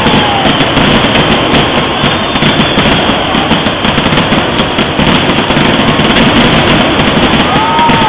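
Fireworks display going off continuously, a dense run of bangs and crackling with no pause.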